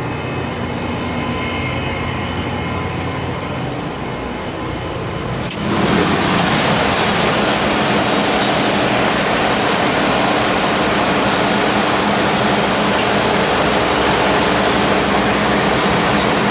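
Ship's engine room machinery running, a loud steady drone with a hum under it. About five and a half seconds in it turns suddenly louder and fuller, and then holds steady.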